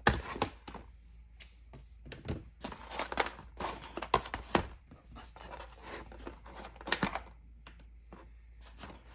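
A sharp snip right at the start as scissors cut off the excess tail of a plastic zip tie, followed by irregular clicks, taps and crinkling of hands handling the plane's parts.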